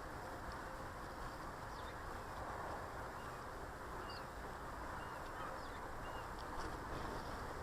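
A few short, faint chirps from small garden birds at a feeder over a steady background hiss of outdoor noise.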